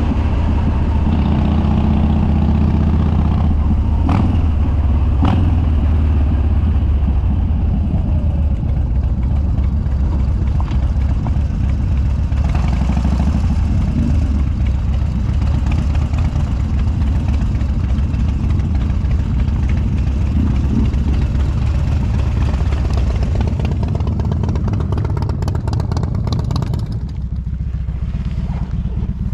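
Harley-Davidson Dyna Street Bob's Twin Cam V-twin running loud through unbaffled dual exhaust while riding, with wind noise. It gets a little quieter near the end.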